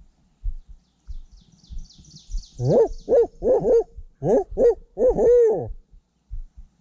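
Barred owl's 'who cooks for you, who cooks for you-all' hooting: about eight rhythmic hoots in two phrases, the last note long and drawn out, starting about two and a half seconds in. Faint, quick, high chirping from a small bird comes just before it, and soft low thumps sound throughout.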